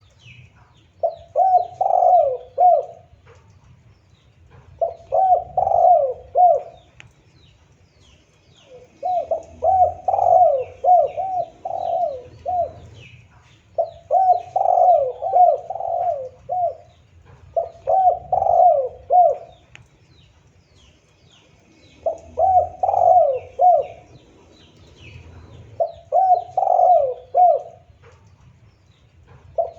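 Spotted dove (tekukur) cooing: a phrase of four to six quick coo notes, repeated seven times at intervals of about four seconds. Faint chirps of other small birds sound higher up between the phrases.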